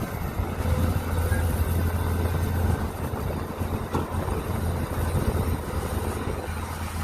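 Mini excavator engine running steadily with a low drone, with a light click about four seconds in.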